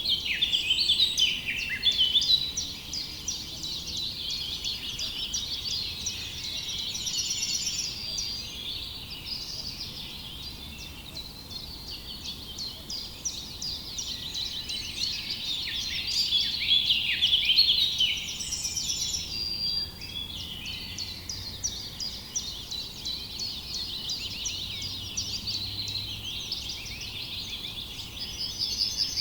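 A chorus of many small birds chirping: a dense, continuous run of short, quick, high chirps that swells near the start and again a little past the middle.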